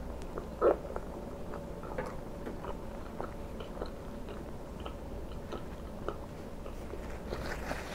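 Close-miked chewing of a mouthful of fried egg, mouth closed: soft, irregular wet clicks and smacks. One louder short thud comes less than a second in.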